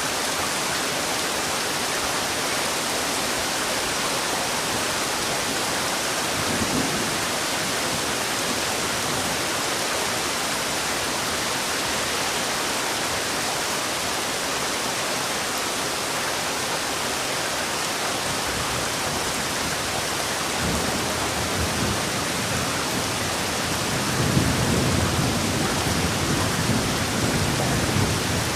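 Heavy rain falling steadily, with a few low rumbles of thunder, the longest over the last few seconds.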